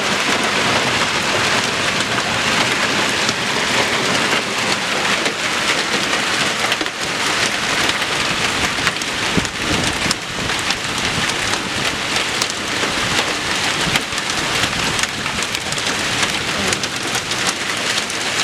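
Heavy rain in a thunderstorm: a dense, steady rush of rain with many sharp individual drop hits.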